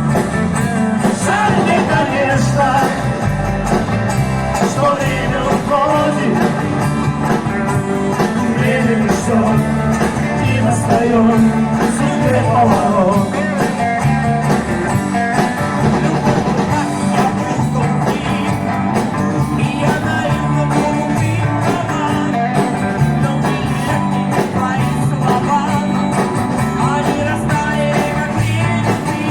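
A live band playing upbeat rock-and-roll-style music with guitars and a steady, rhythmic bass line.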